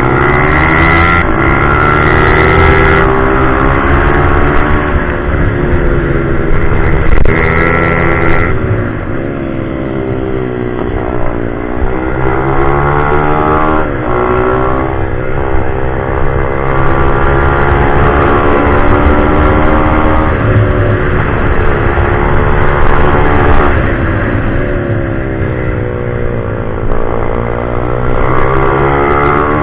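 Single-cylinder pit bike engine being ridden hard, its pitch climbing as it revs up and dropping back again and again every few seconds through gear changes and corners.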